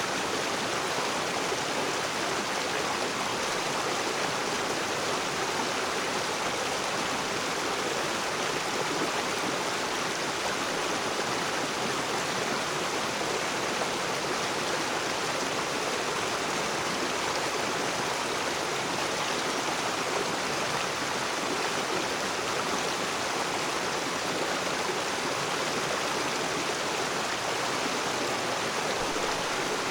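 Rocky river's water rushing and splashing over stones in a steady, even flow.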